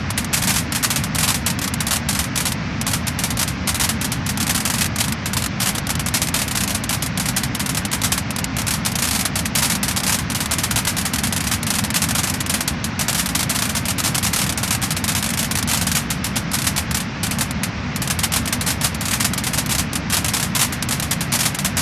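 Wood fire crackling and popping: dense, rapid crackles over a steady hiss.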